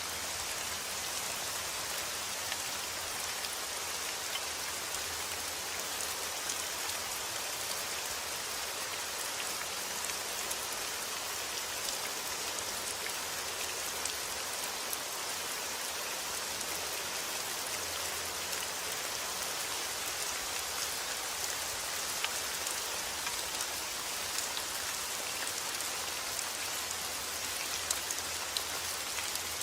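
Steady rain falling on a surface: an even hiss with scattered individual drops ticking sharply through it.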